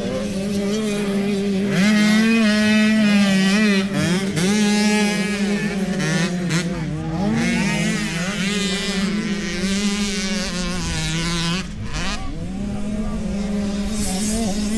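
Motocross dirt bike engines revving on the track, several at once, their pitch rising and falling over and over.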